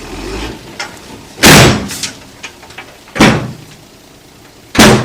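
Three loud bangs about a second and a half apart, each dying away quickly.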